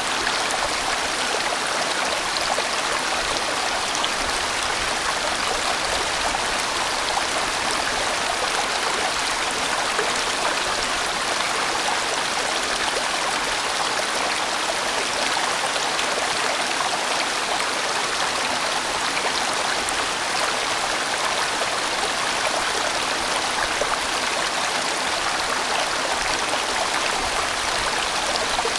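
A large mountain-valley stream flowing steadily over rocks, a dense even rush of water.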